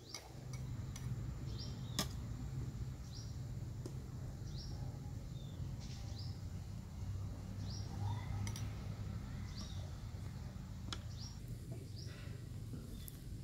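A small bird chirping over and over, short falling chirps about once a second, over a steady low rumble, with a couple of sharp clicks.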